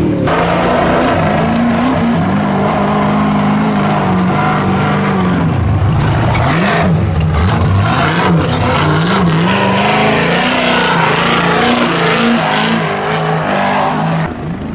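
Trophy Truck race engine revving hard, its pitch rising and falling again and again with the throttle, with a deep drop and climb about six seconds in.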